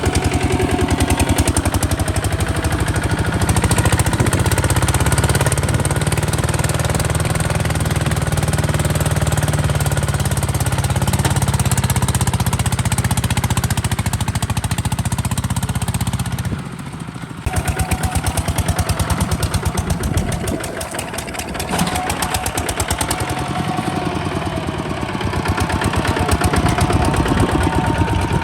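Kubota RT140 DI single-cylinder diesel engine of a walking tractor running with a rapid, steady knock; the sound drops briefly a little past halfway, then carries on.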